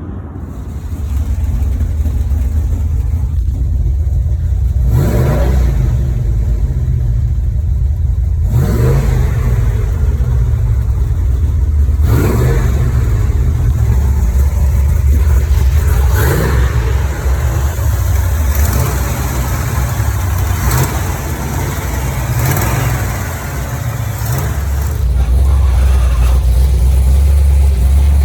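A motor vehicle driving, its engine running with a steady low rumble and several brief rises in pitch as it speeds up, spaced a few seconds apart.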